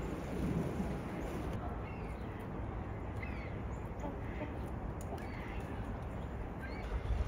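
Several faint, short bird calls dropping in pitch, scattered over a steady low outdoor rumble.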